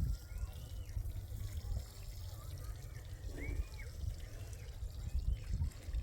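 Water trickling and pouring, as when plants are watered by hand, over a steady low rumble.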